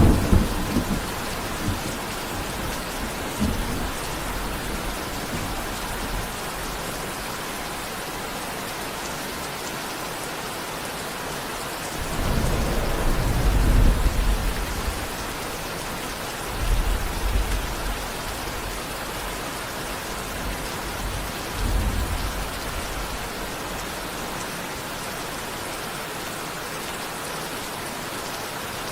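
Steady heavy rain falling, with low rolls of thunder several times. The longest and loudest rumble comes about twelve seconds in, with shorter ones a few seconds later.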